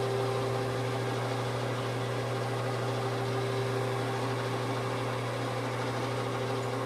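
13-inch Kerry geared-head metal lathe running steadily with no cut, its motor and headstock gears giving an even hum.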